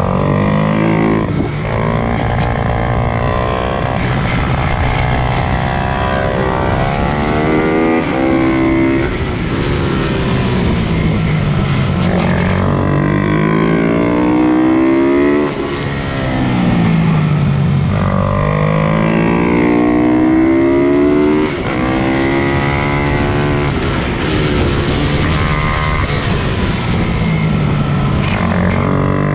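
Several pit bikes racing, their small single-cylinder four-stroke engines revving hard and dropping off again, pitches rising and falling over one another as riders accelerate, shift and brake through the track.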